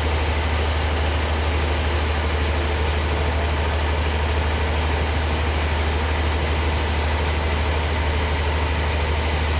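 Bandsaw sawmill running steadily: a constant low machine hum under an even hiss, with no change in pitch or level.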